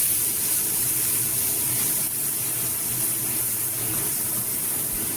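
Chopped onion and green chili sizzling steadily in hot oil in a pan over high heat, being sautéed.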